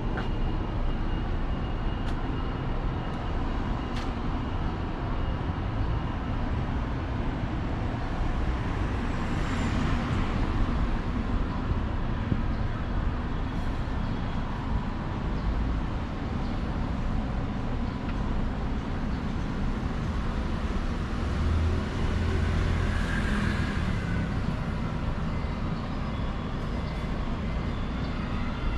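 Street traffic noise: a steady hum of road traffic, with vehicles passing about ten seconds in and again around twenty-three seconds in.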